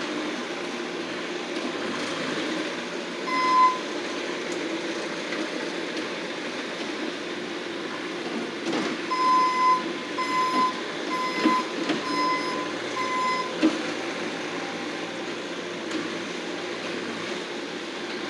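Bobcat skid-steer loader's engine running steadily while it works, its backup alarm sounding one beep a few seconds in, then a run of five evenly spaced beeps as it reverses.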